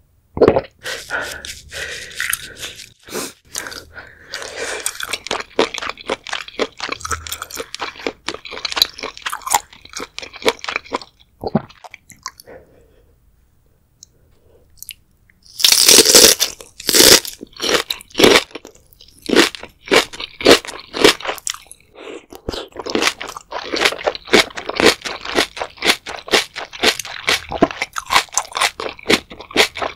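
Close-miked eating: crunching and chewing of spicy seafood boil, then a pause of about three seconds. About halfway through comes a loud crunching bite into bok choy, followed by steady chewing at about two chews a second.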